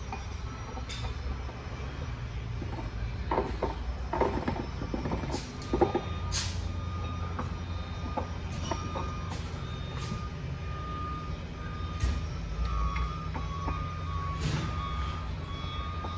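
A vehicle backup alarm beeping on and off at one steady pitch over a steady low rumble of a truck. Several sharp metal clinks and clanks come between about three and six seconds in, from parts being handled during the transmission rebuild.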